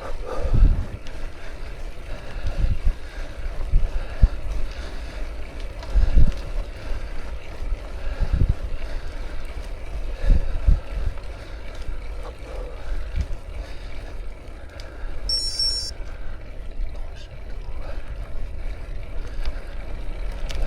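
Wind buffeting the microphone over the low rumble of a bicycle riding along a road, with several low thumps. A brief high chirp comes about fifteen seconds in.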